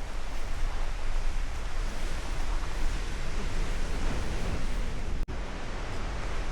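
Steady rushing wind with low buffeting on the microphone. The sound drops out for an instant a little over five seconds in.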